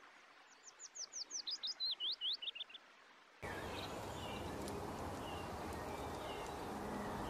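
A songbird singing a quick run of about a dozen downward-sliding whistled notes, roughly six a second, that step lower in pitch over two seconds. Then steady outdoor background noise with faint chirps from other birds.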